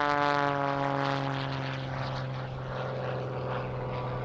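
Propeller-driven MXS-RH aerobatic monoplane's piston engine running on the ground after landing, its note sliding slowly lower.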